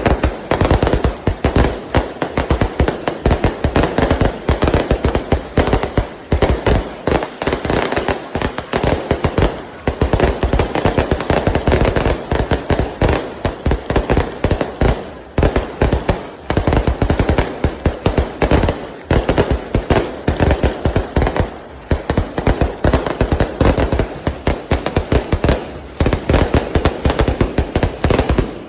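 Fireworks going off in a dense, continuous barrage of sharp bangs and crackles, several per second without a break.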